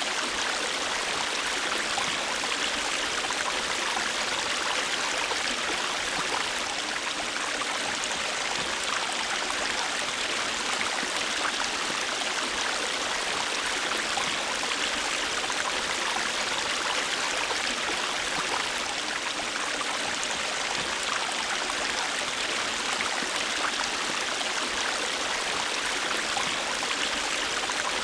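River water flowing steadily over rocks, an even rushing with small splashes and trickles throughout.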